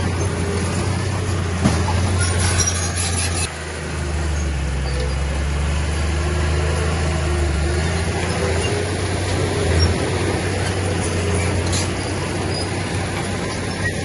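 Heavy diesel engine of earthmoving machinery running steadily under a low hum, with a sharp knock and some metallic clanking in the first few seconds. The engine sound drops and changes abruptly at about three and a half seconds.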